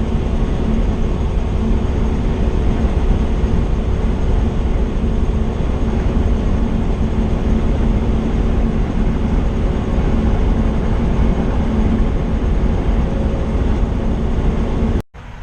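Semi truck on the road, heard as a steady engine drone and road rumble. It cuts off suddenly near the end.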